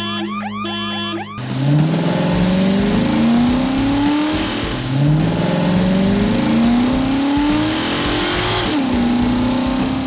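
A brief bit of music, then a vehicle engine sound effect revving up in two long rising sweeps, dropping at the end of the second and settling to a steady drone, with a hiss of tyre or road noise above it.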